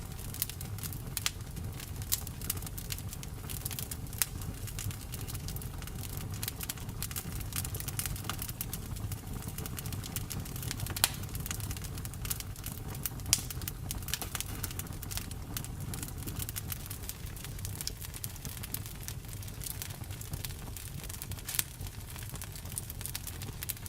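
Campfire crackling: frequent irregular pops and snaps of burning wood over a steady low rumble.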